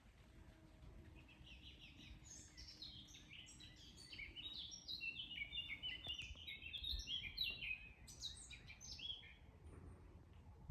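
A songbird singing a long, rapid song of many short high notes, starting about a second in and stopping shortly before the end, over a low background rumble.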